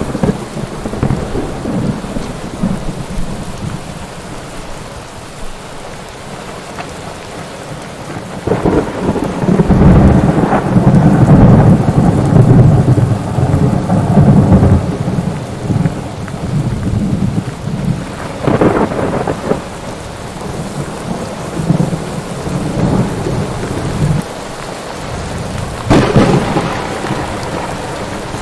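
Thunderstorm: steady heavy rain with a long rolling peal of thunder building about a third of the way in, followed by two sharper thunder cracks later.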